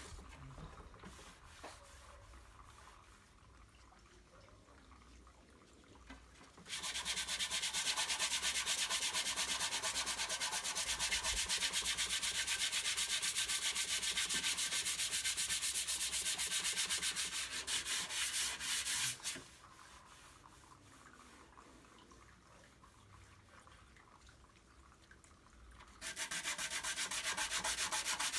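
Dry sanding of hardened auto body filler: a sheet of abrasive rasping over the surface in rapid, even strokes. There are two bouts, one starting a few seconds in and stopping about two-thirds of the way through, the other starting near the end, with quiet pauses between.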